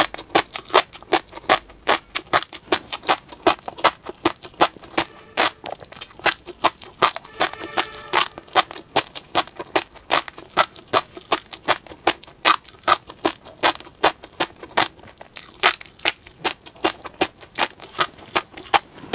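Close-up mouth sounds of chewing tobiko (flying-fish roe): a steady stream of crisp pops and clicks, about three or four a second, as the tiny eggs burst between the teeth.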